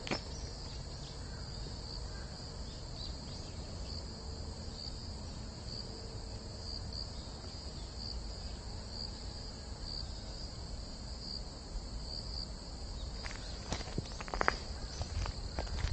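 Insects singing in a summer forest: a steady high-pitched drone that swells in a regular pulse about every two-thirds of a second. Footsteps on the path come in near the end.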